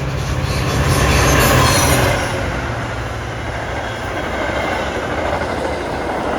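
A Metra commuter train passing close by. A deep engine rumble is loudest in the first two seconds, then gives way to the steady rush of the cars rolling past.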